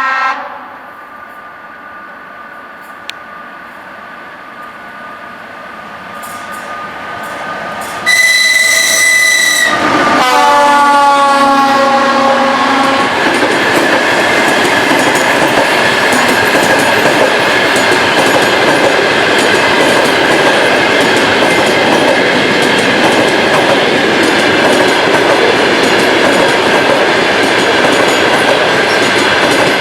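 ChS4 electric locomotive approaching with a passenger train, growing louder, then sounding a high steady whistle for about two seconds, followed by a lower horn chord that dips slightly in pitch as it passes; a horn greeting from the crew. After that the locomotive and coaches roll past with loud steady wheel clatter on the rails.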